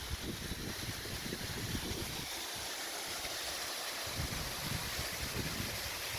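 Steady rushing hiss of a waterfall whose flow has dropped off, with wind buffeting the microphone in low gusts that let up for a couple of seconds partway through.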